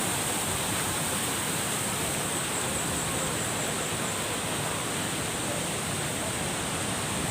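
Waterfall pouring into its pool, a steady rushing of water.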